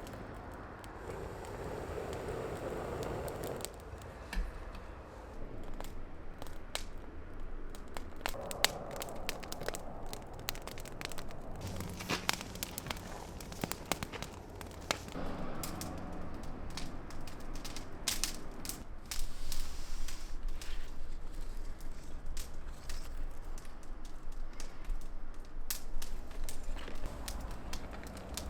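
Wood fire crackling in a fire pit, with irregular sharp pops and snaps.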